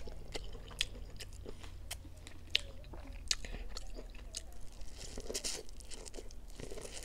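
Close-up eating of boiled corn on the cob: biting kernels off the cob and chewing, heard as a run of short crunching clicks.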